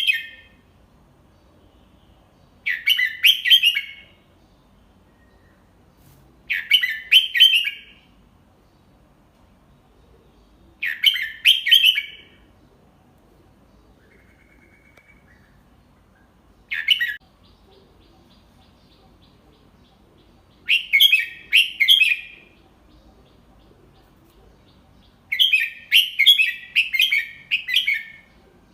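Red-whiskered bulbul singing short, clear warbled phrases about every four seconds, with quiet gaps between them and one brief note in the middle. This is a tutor bird's song, delivered slowly and clearly for young bulbuls to copy.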